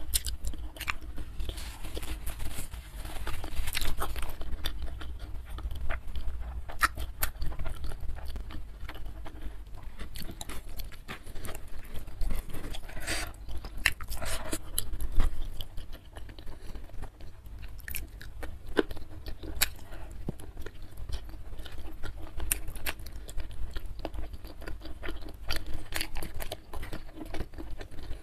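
Close-miked eating by hand: wet chewing and biting on goat trotter curry and rice, with many short smacking clicks scattered throughout.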